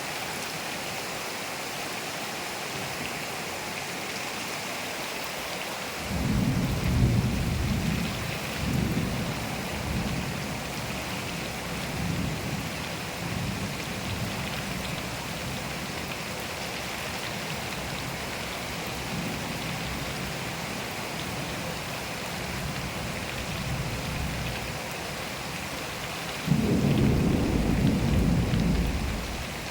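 Steady rain falling with thunder. A rolling rumble starts about six seconds in and fades over several seconds. A second, louder clap of thunder comes near the end and cuts off suddenly.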